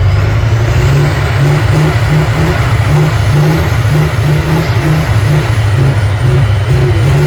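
Off-road trial truck's diesel engine running loud and hard under load, with a pulsing low drone and a faint high whine that rises in pitch at the start.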